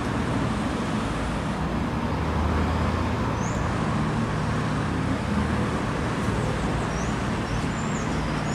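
Ride-on floor scrubber running steadily: a low motor hum under a broad hiss of brushes and water. A few faint high chirps come through about three seconds in and again near the end.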